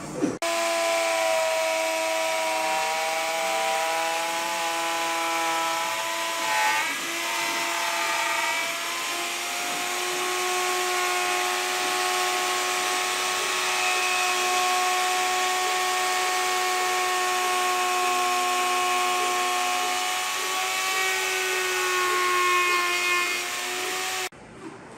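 A power tool's motor running steadily as a high whine, its pitch dipping and shifting a little under load as it works the wood. It starts and cuts off abruptly.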